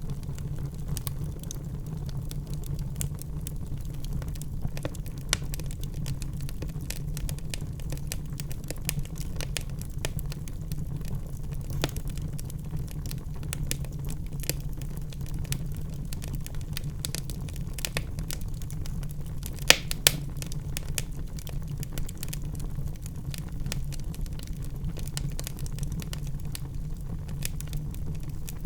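Wood fire burning in a fireplace: a steady low-pitched burning sound with frequent small crackles throughout, and two louder pops in quick succession about two-thirds of the way through.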